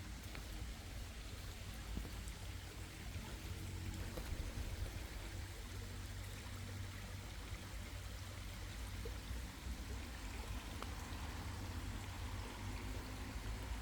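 Steady rush of flowing water from a stream, with a low rumble underneath and a few faint clicks.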